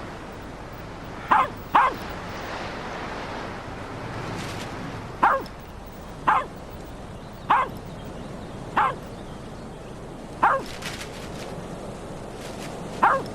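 A dog barking in single sharp barks, about eight in all, two in quick succession about a second in and the rest spaced one to two and a half seconds apart, over a steady rush of wind.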